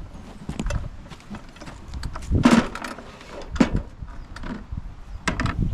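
Scrap steel being handled in a bucket for weighing: an irregular run of metal knocks and clatter. The loudest clank comes about two and a half seconds in, with further sharp knocks a second later and near the end.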